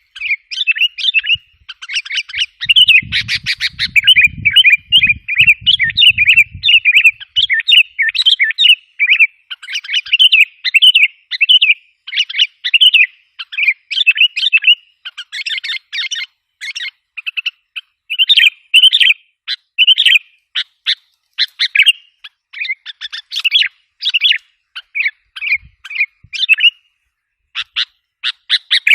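Sooty-headed bulbul (kutilang) calling in a fast, unbroken run of short chattering chirps, the kind of call played as a lure to excite wild bulbuls. Toward the end the notes come shorter and more spaced out.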